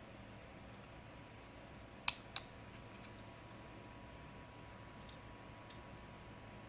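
Two sharp clicks about a quarter of a second apart, then a few faint ticks, over a low steady hum.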